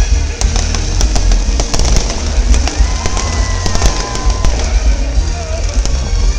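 Fireworks going off: a rapid string of sharp cracks and pops over deep, continuous booming, with music playing underneath.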